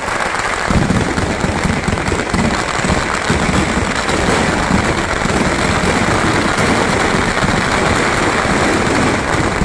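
A dense barrage of fireworks and firecrackers going off: countless overlapping bangs and pops merging into a loud, unbroken crackle.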